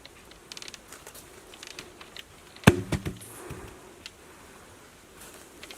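Scattered light clicks and taps, then one sharp knock a little under three seconds in, followed by a few smaller knocks, as from handling or striking wood during building work.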